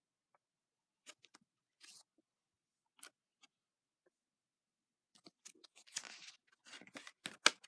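Paper rustling and crackling clicks from a book's pages being handled and turned. There are a few scattered rustles at first, growing busier from about five seconds in, with one sharp click near the end.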